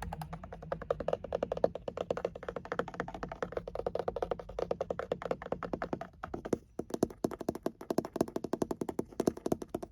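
Rapid tapping on a car, about ten taps a second, with a short break about six seconds in.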